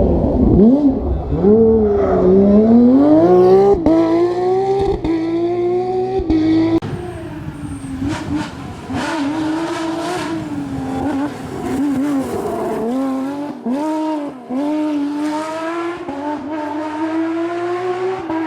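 Porsche 997 GT3 rally car's flat-six engine at racing revs, its pitch climbing, dropping sharply at gear changes and lifts, then climbing again. The sound is quieter from about seven seconds in, and the revs keep rising and falling.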